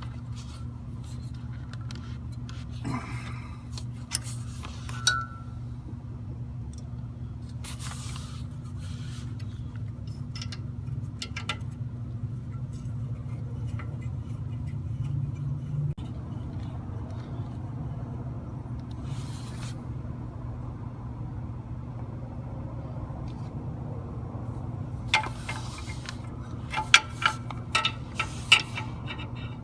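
Metal hand tools clinking and scraping on the engine as the injector is refitted: scattered single clinks, then a quick run of clinks near the end. A steady low hum runs underneath.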